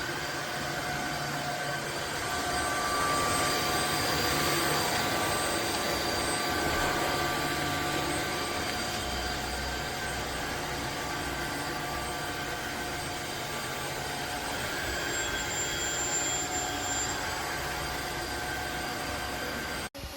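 Tineco Floor ONE S7 Pro cordless wet-dry vacuum mop running in auto mode: a steady motor whine with several high tones over a hiss, swelling a little a couple of seconds in, then cutting off abruptly near the end.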